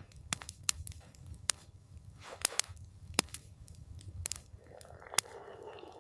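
Campfire crackling: irregular sharp pops of burning wood, several a second at times, over a low steady rumble, with a brief softer rushing sound near the end.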